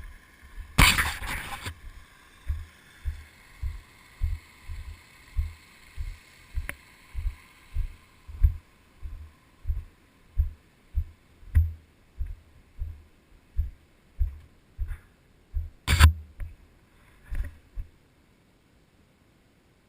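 Footsteps of a person walking with the camera, heavy low footfalls about two a second. A brief rustling scrape comes about a second in, and a sharp click near the end, just before the sound cuts off.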